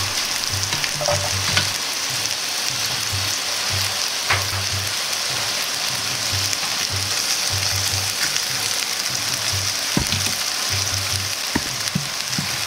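Chicken pieces sizzling steadily in hot oil in a frying pan, with a few light ticks as minced ginger and chopped onion and green pepper are dropped in.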